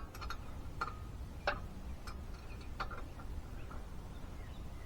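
Sparse, irregular light clicks and taps over a low steady hum.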